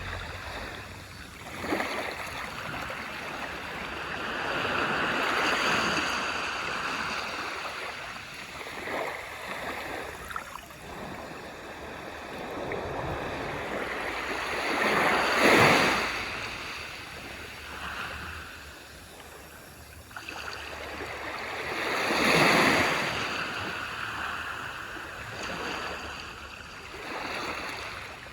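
Ocean waves breaking and washing up on a beach shore, the surf swelling and falling back every several seconds; the biggest breakers come about halfway through and again some seven seconds later.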